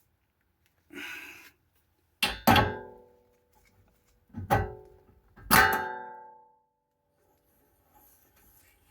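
Sharp metal-on-metal strikes that ring out with a clear pitch: two close together a little over two seconds in, then two more about a second apart near the middle. A short hiss comes about a second in.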